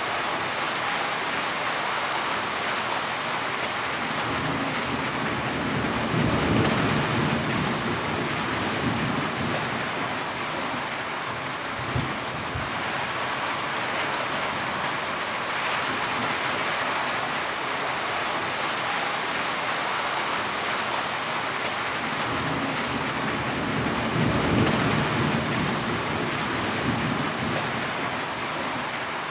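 Steady heavy rain, with two low rolls of thunder swelling up about six seconds in and again near the end, and a single sharp knock near the middle.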